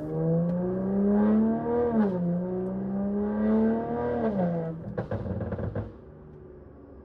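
Straight-piped, catless BMW 540i turbocharged inline-six exhaust under acceleration, its pitch climbing through two upshifts. About five seconds in, on lift-off, it gives a short run of crackling burbles added by the tune, then settles to a low hum.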